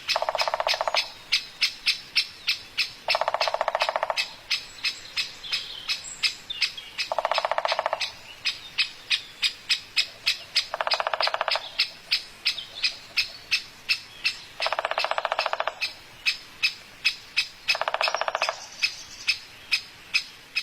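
Bird calls: rapid, evenly spaced chirps, about two or three a second, with a longer buzzy call of about a second repeating every three to four seconds.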